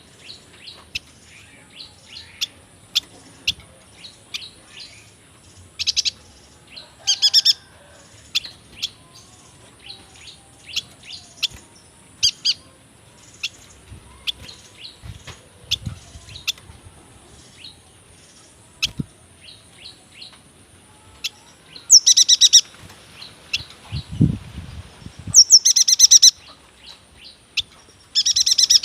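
A yuhina singing: a run of short, high chirps, broken by loud, buzzy, rattling trills of about a second each, one early and three close together in the last third.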